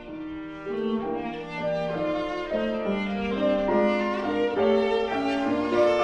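Viola playing a bowed melody of held, moving notes with piano accompaniment, growing louder about a second in.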